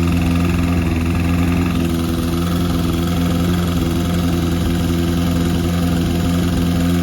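Honda CB550's air-cooled inline-four engine idling steadily while its four carburetors are being synchronized.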